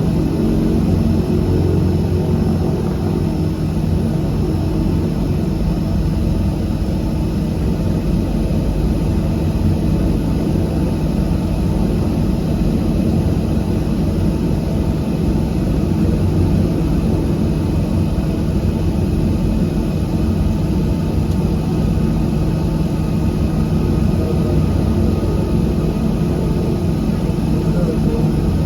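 Cabin noise of a de Havilland Canada DHC-6-300 Twin Otter: its two PT6A turboprop engines and propellers making a loud, steady drone with a low, even hum.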